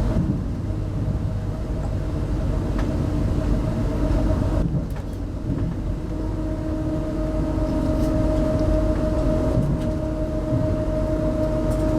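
Inside a running RZ25T passenger coach: steady wheel-on-rail rumble with a constant hum, the hum growing stronger about halfway through.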